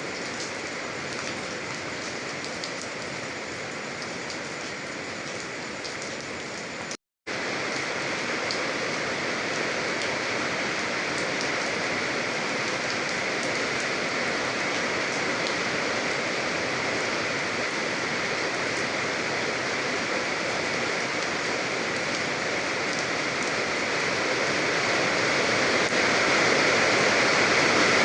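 Steady rain falling, a dense even hiss with faint individual drop patters. About seven seconds in it cuts out to silence for a moment. It then comes back denser and louder, growing a little louder toward the end.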